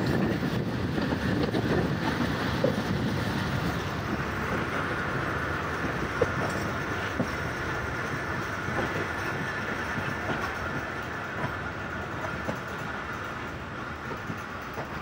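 Passenger train running along the track, heard from the side of the guard's van: a steady rumble of wheels on rail with a few light clicks at the rail joints, easing slightly toward the end.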